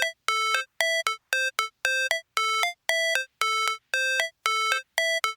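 Synthesized ringtone-like beeping: a short electronic note repeating about twice a second, many of the notes stepping up in pitch at their end.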